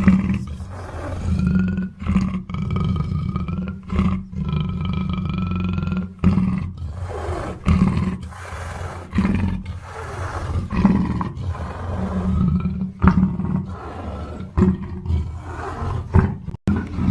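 Black panther growling and roaring in a string of deep, rough calls, broken by several abrupt cuts.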